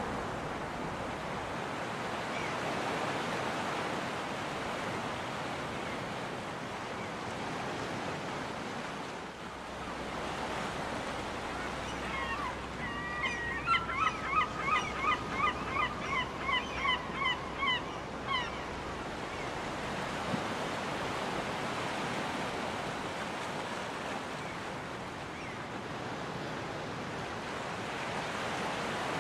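Steady ocean surf washing on a beach, with a seagull calling in a rapid run of about a dozen short calls about halfway through, the calls drifting slightly lower in pitch.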